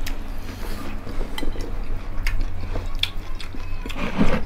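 Close-up eating sounds: chewing and crunchy bites with scattered small clicks of hands and plates. A brief low voiced sound comes near the end.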